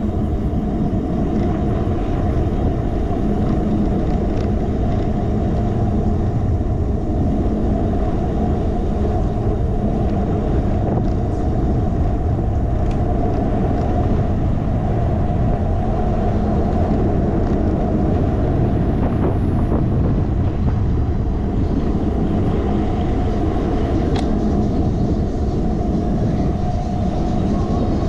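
Steady rumble of wind and road on a bicycle handlebar-mounted GoPro's microphone while riding.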